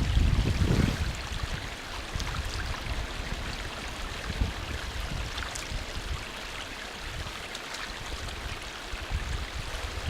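A small stream running steadily, with wind buffeting the microphone in the first second or so.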